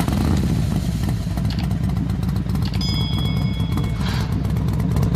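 Yamaha Mio Sporty scooter's single-cylinder engine running loud and rough with a fast, uneven pulsing. The owner traces this noise to a worn crankshaft with play in the connecting rod and a slack cam chain tensioner. A brief high steady tone sounds about three seconds in.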